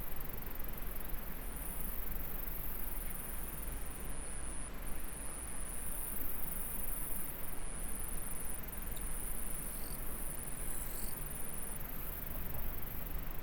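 Steady rushing of a small stream's flowing water, with an insect calling in high-pitched trills about a second long, repeated with short gaps from a second or so in until near the end.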